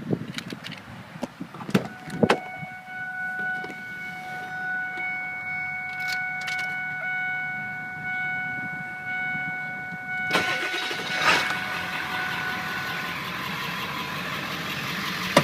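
A few sharp clicks and knocks, then a steady electronic warning tone for several seconds. About ten seconds in, the 7.3-litre Power Stroke V8 turbo diesel starts and runs on at a steady idle.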